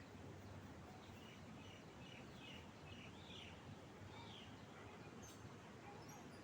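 A few faint, short bird chirps over a steady low background hiss, clustered in the first half.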